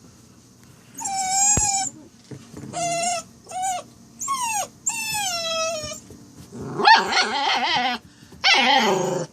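A Saint Dane puppy (St. Bernard–Great Dane cross) making strange vocal sounds: a string of five short, high whines that rise and fall, then two longer, wavering growl-like moans.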